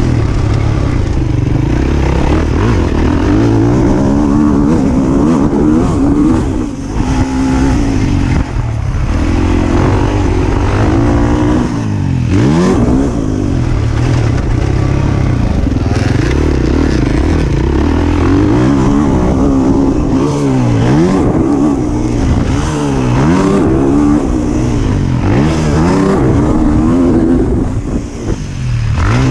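Motocross bike engine revving hard and continuously. The throttle closes and opens again and again, so the pitch drops and climbs every couple of seconds.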